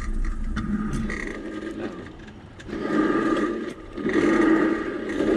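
Home-built railbike's wheels running along steel rails: a steady rolling noise with a thin whine above it, getting louder about three seconds in.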